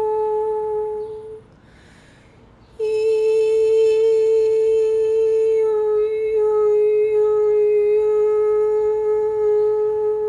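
A woman toning: a high, steady, kettle-like vocal tone held on one pitch. It breaks off for a breath about a second and a half in, then is held again for about eight seconds, stepping down slightly in pitch partway through.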